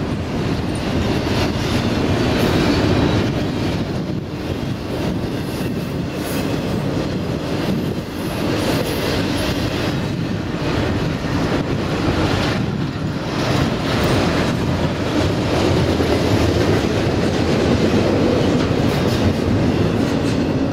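Loaded double-stack container well cars rolling past close by: a steady, loud rumble of steel wheels on rail, with scattered clicks and clanks.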